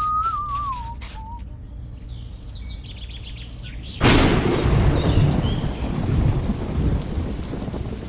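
A whistled tune trails off about a second in; then, about four seconds in, a sudden crack of thunder breaks into steady heavy rain.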